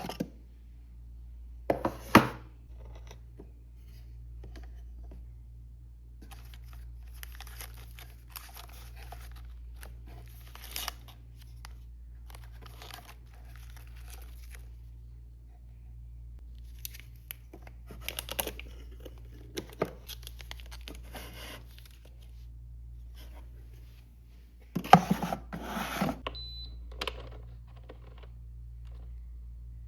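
Intermittent rustling and tearing handling sounds, like paper or plastic packaging, with sharp knocks about two seconds in and a cluster near the end, over a steady low hum.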